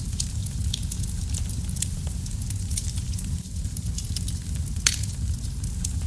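Fire burning in a fireplace, crackling: a steady low rumble of flames with frequent sharp pops and snaps, the loudest pop about five seconds in.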